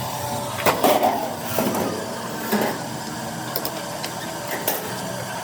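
Sheet steel clanking and knocking in a metalwork shop, about five ringing knocks with the loudest cluster about a second in, over a steady machine hum.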